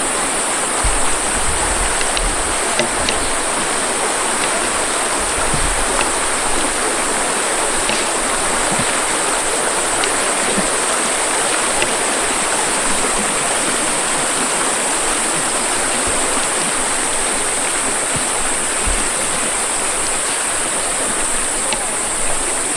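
Flowing water, a stream rushing steadily, with a steady high hiss over it.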